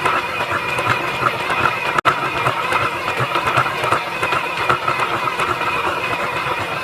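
Steady mechanical running noise from a small motor-driven machine, broken by a momentary cut about two seconds in.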